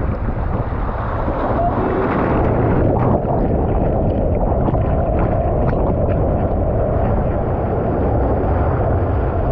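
Steady rush of wind buffeting the microphone over open sea water while kayaking, with a few faint splashes.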